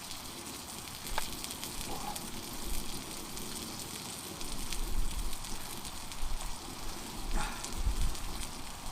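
Food frying in a pan on a wood-burning titanium tent stove: a steady sizzle with scattered small crackles.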